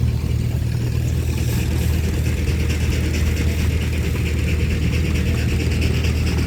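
An engine running steadily at idle, a low even drone with no change in speed.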